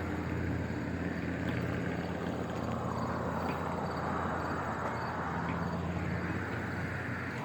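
A vehicle engine running steadily, a low constant hum with a faint wash of outdoor noise over it.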